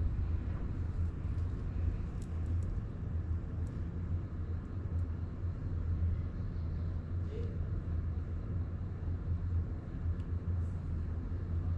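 Honda Grom 125's single-cylinder engine running at a steady pitch, heard under a continuous low rumble of wind and road noise.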